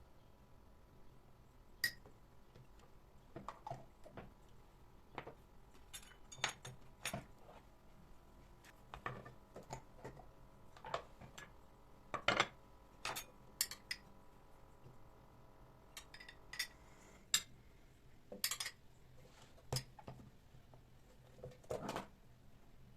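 Dishes and cutlery being handled: irregular clinks and knocks of plates and metal utensils, a few ringing briefly.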